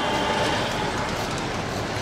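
Bangladesh Railway intercity passenger train running past, its wheels clattering over the rails with a steady rumble. A faint high tone sounds in the first half second.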